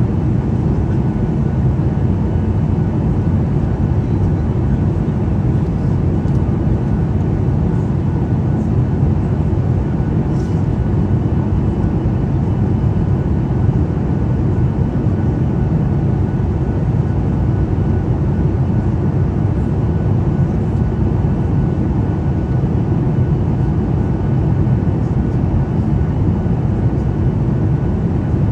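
Steady cabin noise inside a jet airliner in flight: an even, low rumble of engines and airflow that does not change.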